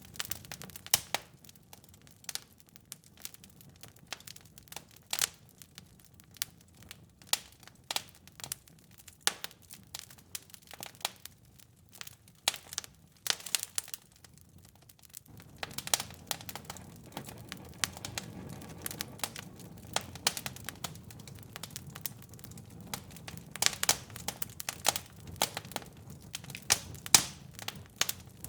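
Wood fire in a fireplace crackling, with irregular sharp pops and snaps over a low steady rush of flames. The rush grows louder suddenly about halfway through.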